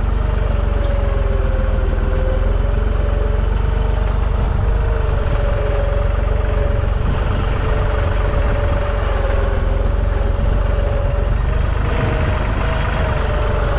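Deutz 55F tractor's diesel engine running steadily under load while pulling a cultivator through the field, a low rumble with a steady whine that wavers slightly in pitch.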